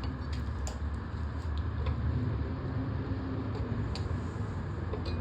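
A few light clicks and taps of a plastic lawnmower air box being worked off its mount, over a steady low hum.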